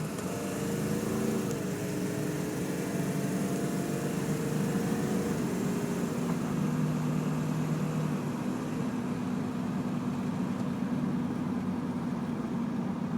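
Ford 7.3-litre Power Stroke turbo-diesel V8 pulling the truck away from a stop, heard from inside the cab. The engine note climbs and drops back a few times as the truck shifts up through the gears.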